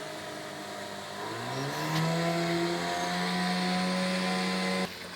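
Motorboat engine running, its pitch rising as it speeds up about a second and a half in, then holding steady at speed; the sound cuts off abruptly near the end.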